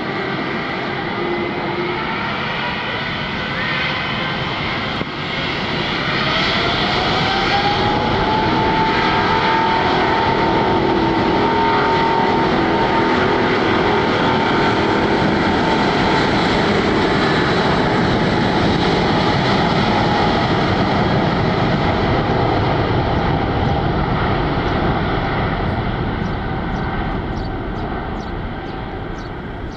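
Jet airliner's engines spooling up and running at high thrust: a loud roar with a whine that rises over a few seconds and then holds steady, fading away near the end.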